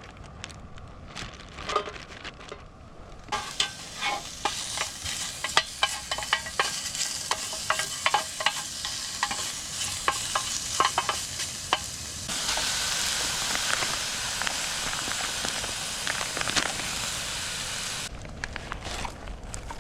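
Food sizzling and spitting in a hot pan. It starts about three seconds in with many sharp pops, becomes a louder, more even sizzle about twelve seconds in, and dies down near the end.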